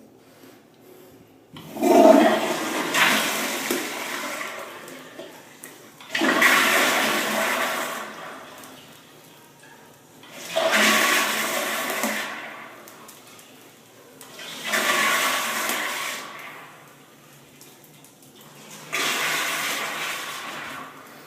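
Toilet flushing five times in a row, about every four seconds: each time a sudden rush of water that dies away over a couple of seconds.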